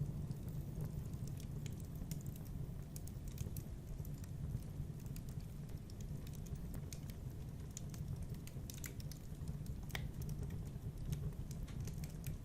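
Wood fire in a fireplace crackling: scattered sharp pops and snaps over a steady low rumble, with one louder pop about ten seconds in.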